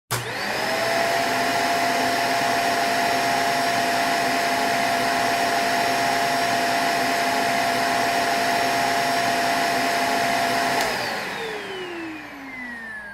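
A small high-speed electric motor switches on and spins up within a fraction of a second. It runs with a steady whine, then about 11 seconds in is switched off and winds down, the whine falling in pitch as it coasts to a stop.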